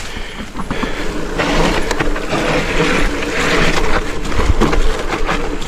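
Mountain bike ridden fast down a wet, muddy, rooty trail: steady tyre and wind noise, with the chain and frame clattering and rattling over the bumps.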